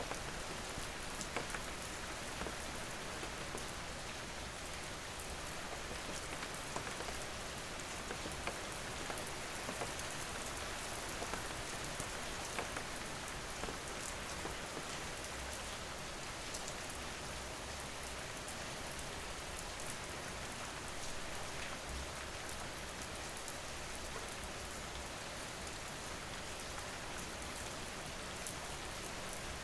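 Steady rain falling on a surface, a dense even hiss with many small drop ticks and patters throughout.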